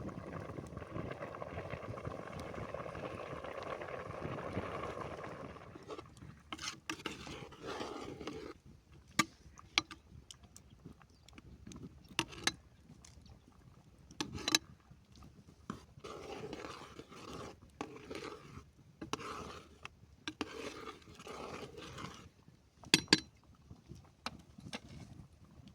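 Cooking sounds: a steady rushing for about the first six seconds, then on-and-off scraping with several sharp clinks of utensils on cookware.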